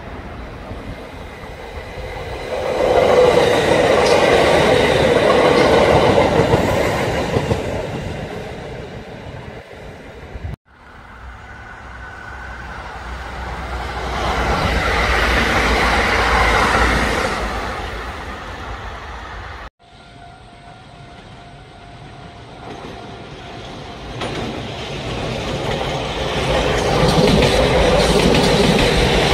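Kintetsu electric trains passing, in three short clips cut one after another. Each swells as a train runs by, with the clickety-clack of its wheels over the rail joints, then fades. The sound cuts off abruptly about ten and about twenty seconds in.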